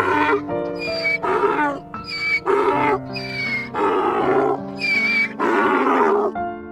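Donkey braying, a run of hee-haw calls switching between high and low pitch over light background music, stopping shortly before the end.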